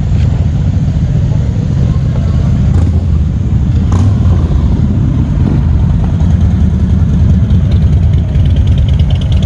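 Custom Suzuki cruiser motorcycle running steadily under way, a loud, even, low-pitched engine sound.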